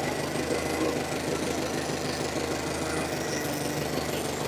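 1954 Ford NAA tractor's four-cylinder gasoline engine running steadily at low speed as the tractor moves off in first gear.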